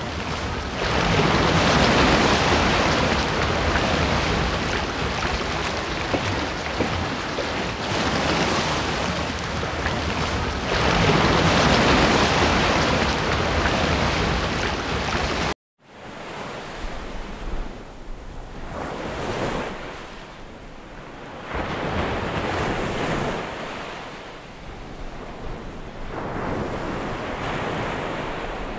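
Ocean surf: waves washing and breaking in slow swells that rise and fall every few seconds. The sound cuts out for an instant about halfway through and comes back quieter, with smaller swells.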